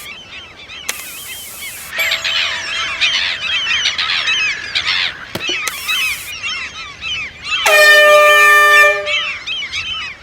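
A big flock of gulls squawking throughout, with one loud horn blast held for a little over a second near the end.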